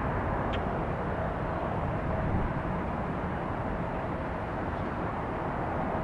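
Steady, distant rumble of a Boeing 777 airliner's jet engines as it takes off and climbs out, with a faint steady whine over it.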